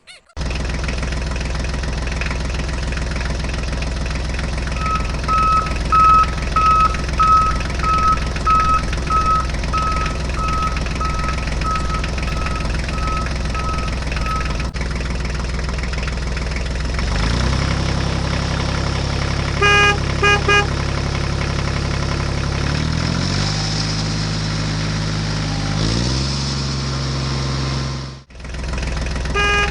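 Tractor engine sound, steady and evenly pitched like a toy's electronic sound effect, with a run of about fourteen reversing beeps, roughly one and a half a second. Later the engine note steps abruptly up and down in pitch, with a few short horn toots in the middle of that stretch and another at the end.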